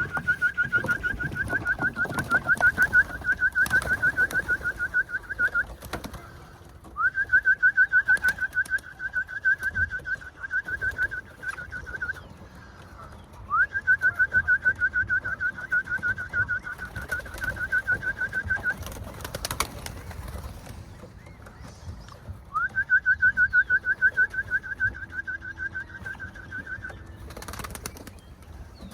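A bird calling in four long runs of fast, evenly repeated high notes, each run several seconds long and opening with a quick upward note.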